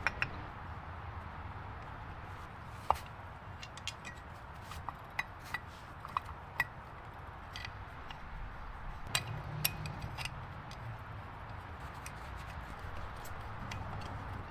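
Scattered light clicks and clinks of hand work with tools, a dozen or so irregular taps, a few ringing briefly, over a steady low hum.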